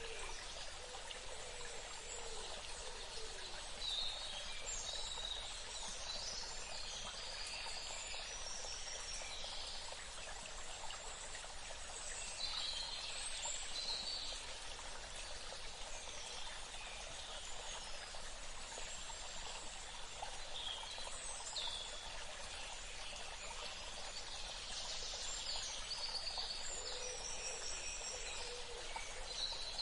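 Steady rush of running water, like a stream. Over it, birds call in several spells of high chirps and quick trills.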